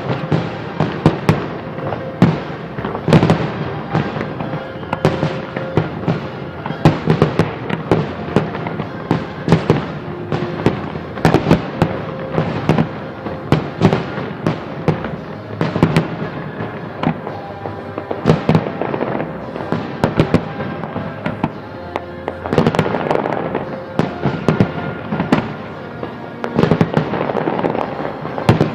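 Fireworks salute: a rapid, irregular barrage of bangs and crackles, several a second, with music playing underneath.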